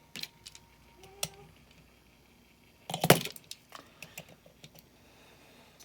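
Small diecast toy cars being handled and set down: scattered light clicks and clatters, with a louder clatter about three seconds in.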